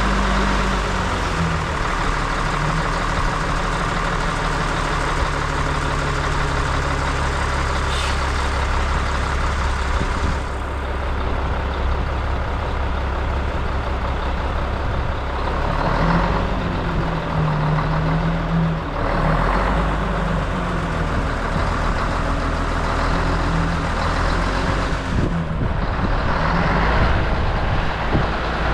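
Heavy truck engine running steadily, picking up a few times around the middle and near the end.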